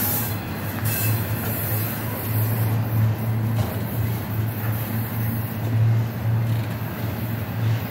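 Double-stack intermodal freight train's well cars rolling past at close range, a steady loud noise of steel wheels on rail that swells and eases slightly as the cars go by.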